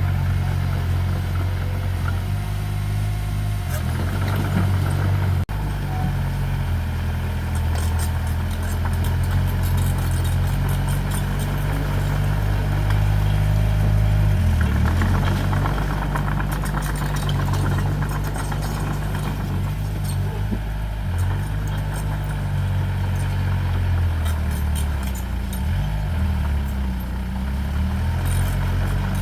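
Heavy earthmoving machine's diesel engine running, its pitch dipping and recovering at times as the load changes, with scattered light clicks and clanks over it.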